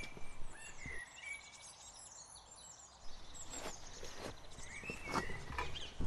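Small birds chirping in short repeated calls, with a few faint knocks in the second half.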